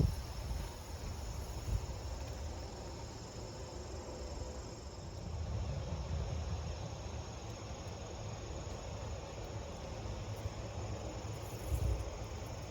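Wind buffeting the phone's microphone as an uneven low rumble, with a small gust near the end. Under it runs a steady, high insect chirring.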